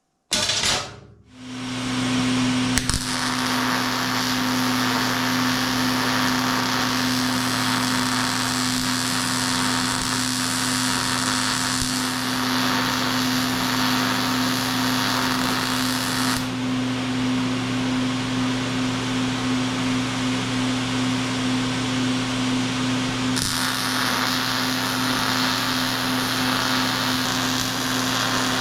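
A metal-working power tool running steadily on angle iron, a continuous buzzing hum over a hiss. It starts about a second in, and its highest hiss dims for several seconds in the middle.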